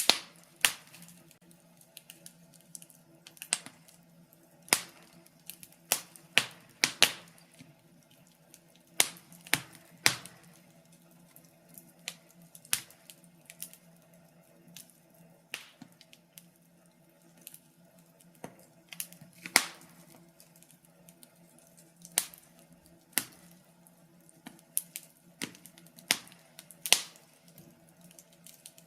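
Wood fire crackling in a fireplace: irregular sharp pops and snaps of burning logs, several a second at times, over a faint steady hum.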